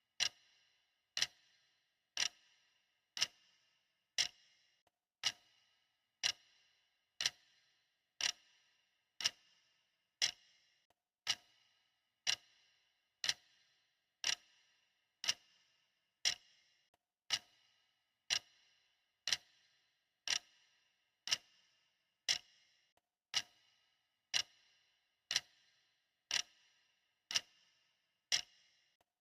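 Clock ticking steadily: sharp, evenly spaced ticks, each with a short bright ring, keeping a regular beat.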